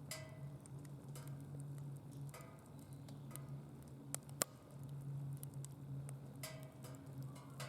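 Wood fire crackling in a DOD Mecha Moe Fire secondary-combustion fire pit: scattered small snaps and ticks, with one sharp loud pop about four seconds in.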